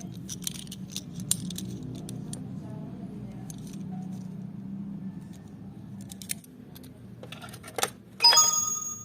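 Small die-cast toy cars clicking and clinking as they are handled, with a loud metallic clink that rings briefly near the end, over a steady low hum.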